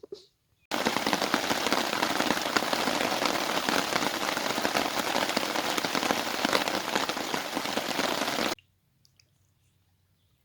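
Heavy thunderstorm rain pouring down: a dense, even hiss of countless drops hitting, starting about a second in and cutting off abruptly near the end.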